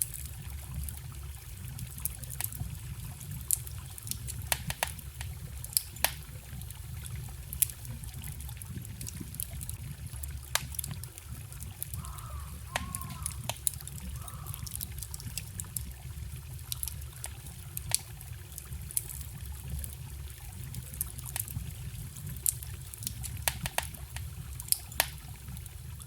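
Wood fire crackling with frequent sharp, irregular pops, over the steady rushing trickle of a small forest stream.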